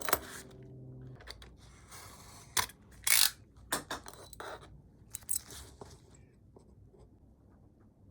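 A run of clicks, knocks and short scrapes from parts and tools being handled on a workbench, loudest a little past three seconds in and dying away after about six seconds. A low steady hum stops about a second in.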